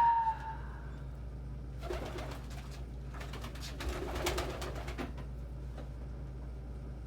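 Domestic pigeons in a loft: a short, high call right at the start, then two bouts of rustling and flapping with low cooing, over a steady low hum.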